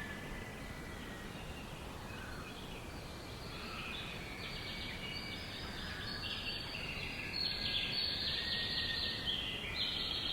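Birds chirping over a steady background hiss, with rapid high trills coming in about four seconds in and growing louder toward the end.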